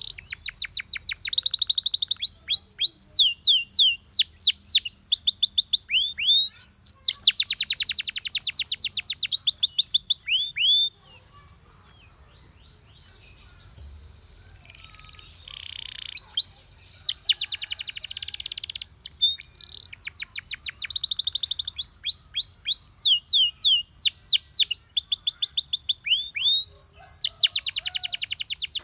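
Canary singing in fast trills of repeated sweeping notes. The song breaks off about eleven seconds in, stays quiet for a few seconds with only faint chirps, then picks up again.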